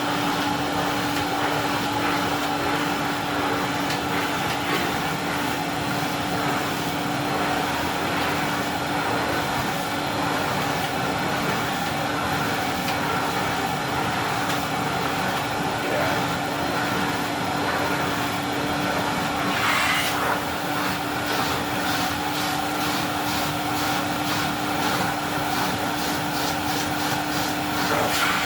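Early-1970s Goblin Model 455 vacuum cleaner running with a steady hum while its basic floor tool, brushes removed, is worked over a thick rug. From about two-thirds of the way through, the tool judders against the pile in a quick, regular chatter.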